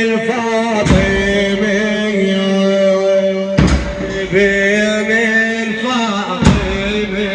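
Instrumental-style opening of a Shia latmiya (Arabic lament chant), made of a sustained chanted vocal drone with wavering voices above it. A deep hit falls about every three seconds.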